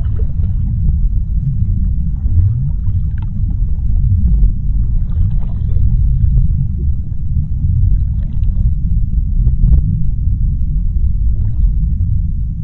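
Deep underwater ambience: a steady low rumble, with faint scattered crackles and clicks above it.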